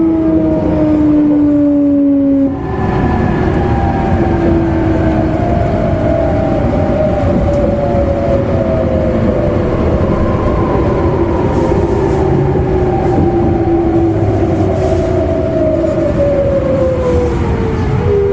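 Inside an E259 series electric train's motor car: the traction motors and inverter whine over the rumble of the wheels on the rails. Several tones glide steadily down in pitch, with one jump about two and a half seconds in, as the train slows under electric braking.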